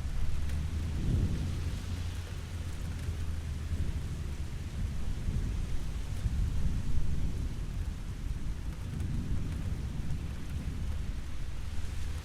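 Steady rain falling, with a low rolling rumble of distant thunder that swells about a second in and again later on.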